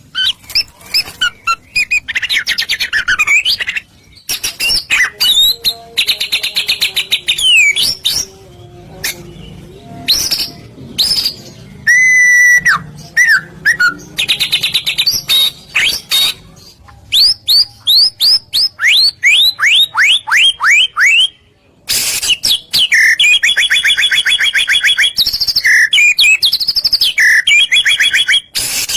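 A white-rumped shama (murai batu) in full, loud song. It sings a varied run of fast trills and sweeping whistles, then a series of quick repeated down-slurred notes. After a brief pause it goes on with rapid, chattering trills.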